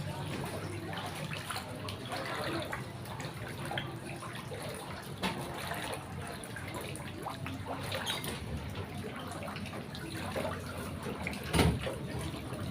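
Steady rush of water, with one brief louder knock near the end.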